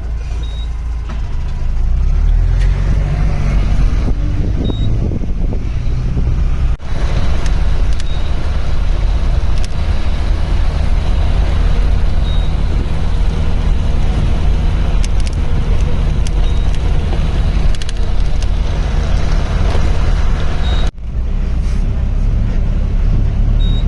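Safari vehicle's engine running with a steady low rumble as it drives along. The sound breaks off for an instant twice, about 7 and 21 seconds in.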